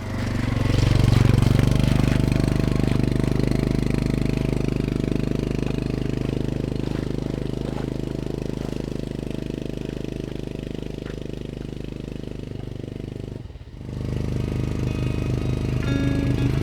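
Motorcycle engine revving up and then running steadily. It dips briefly near the end and picks up again.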